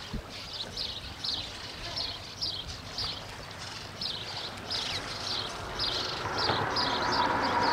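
A bird calling over and over in short, high notes, about three a second. In the last couple of seconds an engine hum grows louder and takes over.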